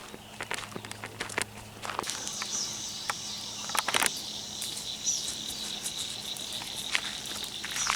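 Outdoor ambience: scattered footsteps or rustles, with a steady high insect drone that comes in about two seconds in, broken by a few short chirping notes.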